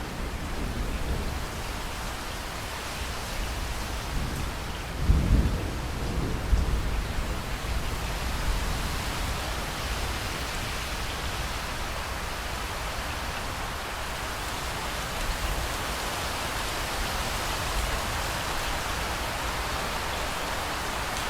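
Steady heavy rain with a roll of thunder rumbling deep, loudest about five to seven seconds in, then fading back under the rain.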